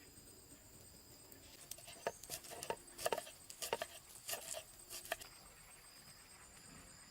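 A quick, irregular run of light knocks and scrapes lasting about three and a half seconds, over a faint steady high-pitched drone.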